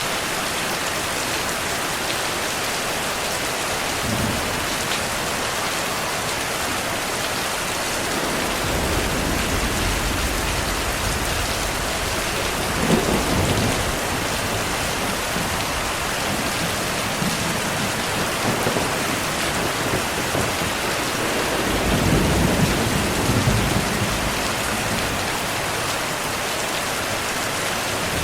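Steady rain hissing, with thunder: a low rumble about a third of the way in, a sharper peal near the middle, and another rolling rumble about four-fifths of the way through.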